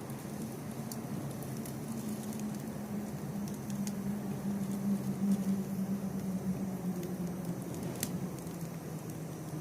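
Wood fire burning, with scattered sharp crackles and pops over a steady low hum.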